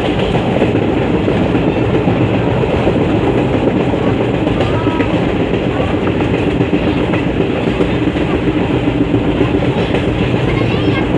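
Moving train, its wheels running on the rails with a steady, continuous noise.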